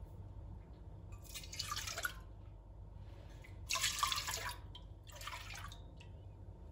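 Three short bursts of splashing water, the middle one the loudest.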